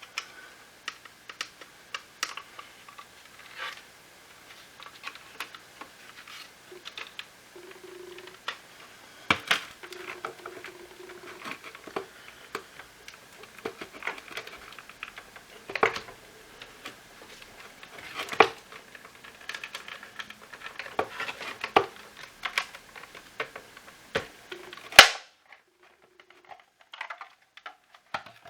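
Irregular clicks, taps and knocks of plastic parts and tools being handled as a Shark IF250 cordless stick vacuum is dismantled, with one sharp, loud click near the end.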